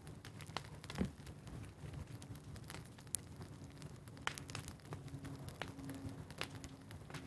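Burning brush crackling, with irregular sharp pops over a low rumble. A faint steady hum comes in about five seconds in.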